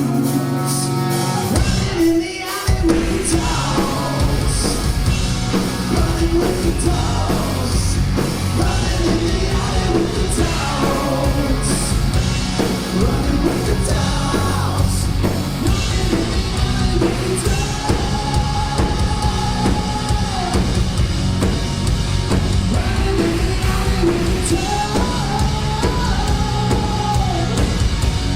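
Hard rock band playing live, with electric guitars, bass, drum kit and a lead singer. The band drops out briefly about two seconds in, then comes straight back, and the singer holds long notes later on.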